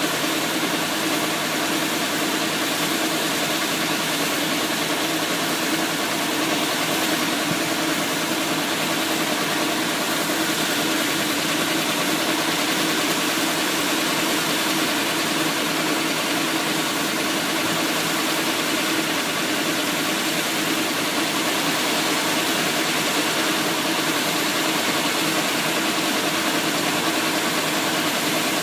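Engine of a Thai e-taen farm truck running steadily at an even speed, with no change in pitch or level.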